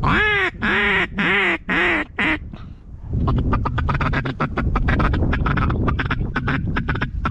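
Mallard duck call blown by a hunter: five loud, drawn-out quacks in the first two and a half seconds, then, from about three seconds in, a fast run of short clucking notes, a feed chuckle.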